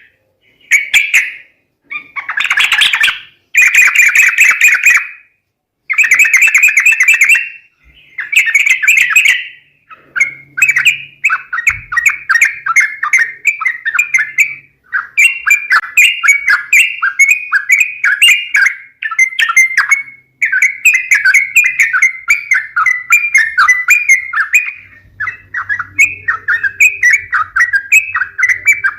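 Yellow-vented bulbuls (trucuk) calling, played as a lure recording: bursts of chattering calls with short gaps for the first several seconds, then a fast unbroken run of short repeated notes.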